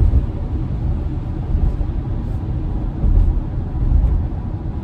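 Steady low road and tyre rumble of an electric Tesla driving on a wet road in light rain, with no engine note.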